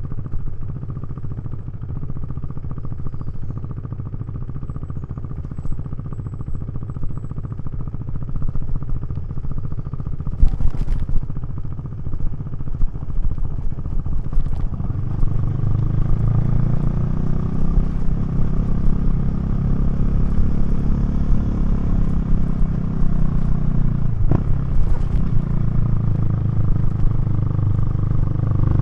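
KTM 390 Duke's single-cylinder engine and Remus exhaust running under way on the road, getting louder about halfway through as the rider opens the throttle, with a brief dip and rise in pitch near the end. A couple of sharp knocks about ten seconds in.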